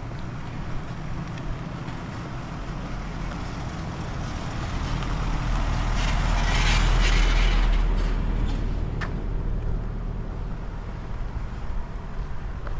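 Wind rumbling on the microphone, with a vehicle passing by that swells to its loudest about seven seconds in and then fades.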